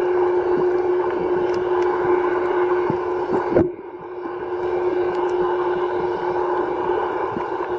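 Steady drone of a boat engine heard underwater, a constant hum with scattered faint clicks. It drops out briefly about three and a half seconds in, then returns.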